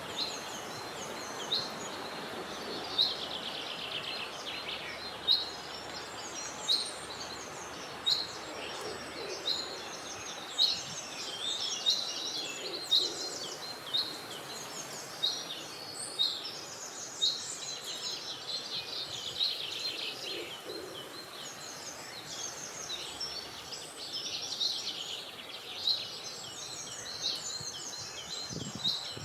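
Wild birds singing and calling together: quick trilling chatter with a short sharp call repeated every second or two, over a steady background hiss of outdoor ambience.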